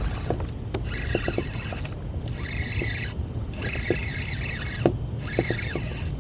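A fishing reel being cranked in short bursts, about four spells of whirring each lasting around a second with pauses between, as a hooked speckled trout is reeled in. Under it runs a steady low rumble of wind and water with small knocks.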